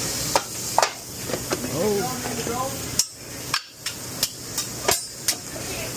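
Metal spatula clacking against a flat-top grill: about ten sharp, irregularly spaced strikes over a steady hiss.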